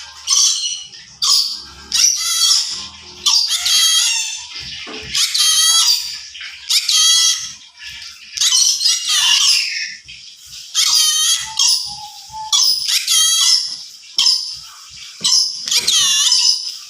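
Yellow-sided conure (a colour form of the green-cheeked conure) calling in a long series of short, high-pitched, squeaky calls, about one a second.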